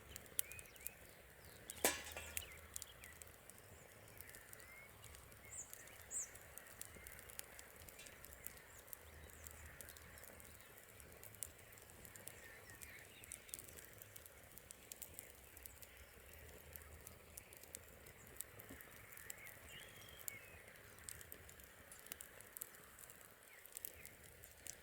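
Campfire crackling softly with scattered small pops and one sharper pop about two seconds in, while birds chirp faintly in the background.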